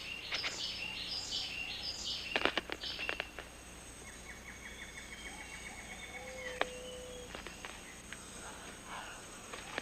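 Tropical rainforest ambience of insects and birds calling. Repeated high chirps during the first three seconds, with a few clicks, give way to a fast trill and then a short low whistle.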